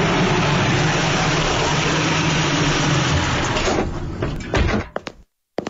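Car engine running steadily as a small car drives up, dying away about four seconds in with a few clicks and a thump. A first knock on a door comes right at the end.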